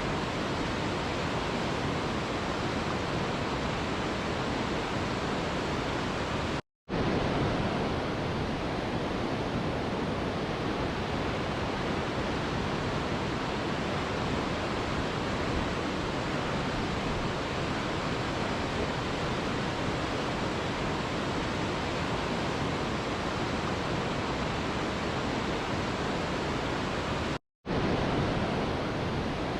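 Mountain river rushing steadily, a dense even roar of flowing water. It cuts out to silence for a split second twice, about seven seconds in and again near the end.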